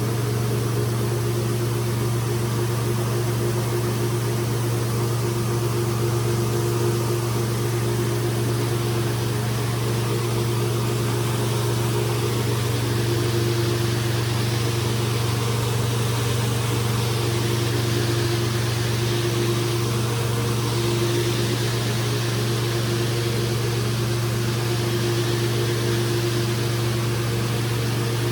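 Rug-cleaning machine running steadily: a constant motor hum with an even hiss of air over it.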